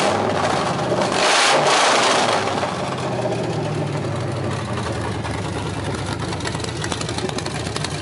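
Crown Victoria's 5.4-litre V8 with aftermarket cams and long-tube headers, idling. About a second in it is revved once briefly, then drops back to a steady idle.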